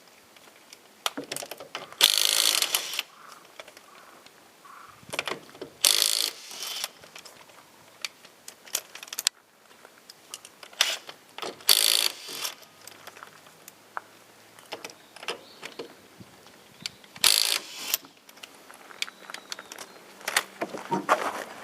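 Ratchet wrench clicking on wheel lug nuts during a tire change, in loud bursts of about a second several times, with scattered clicks and knocks of tools between.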